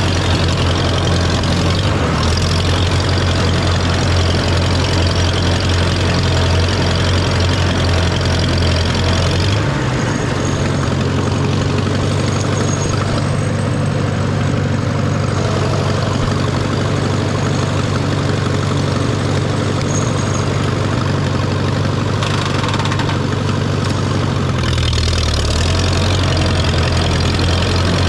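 Farmall A tractor's four-cylinder engine running steadily under load while driving a PTO finish mower. Its low hum changes pitch about ten seconds in and changes back near the end.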